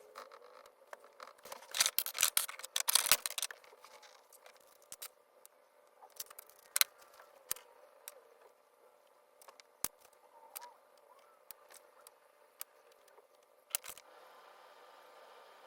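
Painting tools being handled at close range: a burst of rapid scratchy, crisp clicking about two seconds in, then scattered single sharp clicks and taps.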